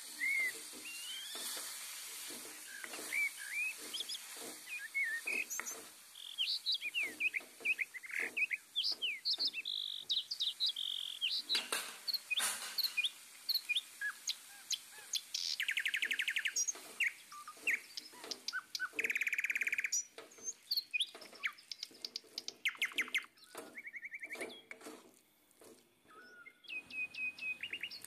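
Birds chirping and singing: many short chirps sliding up and down in pitch, broken by a few fast trills.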